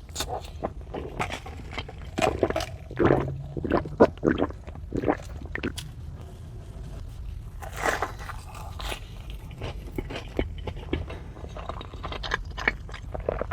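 Close-miked eating: crunchy bites and chewing, with irregular crackling crunches that are heaviest in the first third.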